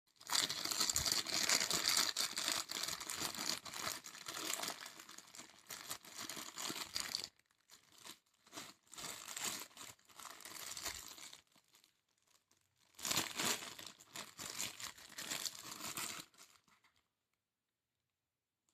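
Plastic packaging crinkling and rustling as it is handled and opened, in three bouts with short pauses between, stopping about three seconds before the end.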